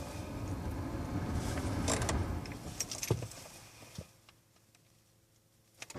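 Car key and ignition switch clicking inside the car's cabin, over a low hum that fades away about four seconds in.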